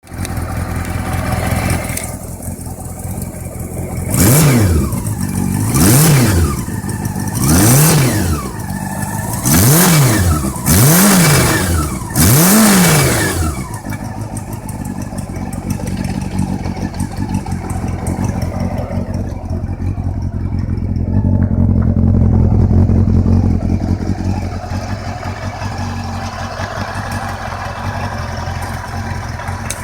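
Honda CB400 Super Four VTEC inline-four engine idling, blipped six times in quick succession a few seconds in, then settling back to a steady idle. The engine has a knock (стук) that the owner is recording.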